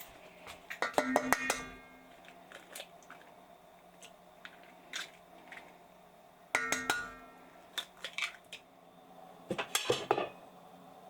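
Kitchenware being handled: three bouts of clinking and clattering, some with a ringing metallic tone, about a second in, midway and near the end.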